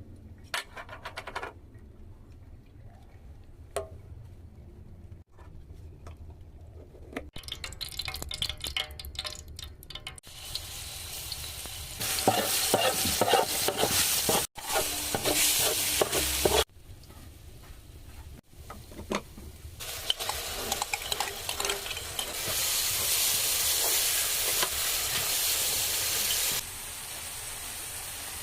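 Food frying and sizzling in a pan, with stirring and utensil clicks and scrapes. The sizzle starts faint with scattered scraping, swells loud about halfway through, drops away briefly, then comes back strong before easing off near the end.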